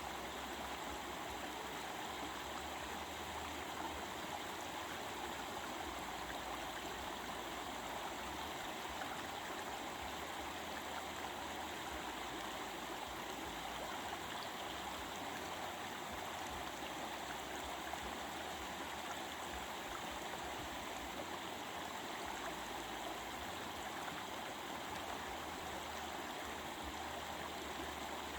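A stream of water babbling and flowing steadily.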